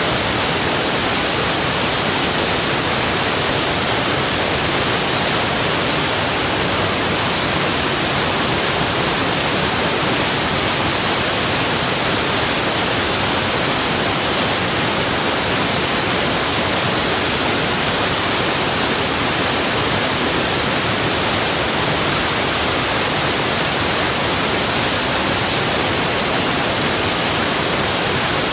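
Rushing water: a steady, unbroken hiss of falling and flowing water, even throughout with no changes.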